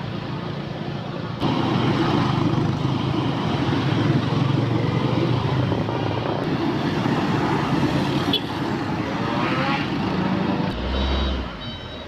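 Truck engines running heavily amid road traffic, getting louder about a second and a half in. A reversing beeper starts near the end.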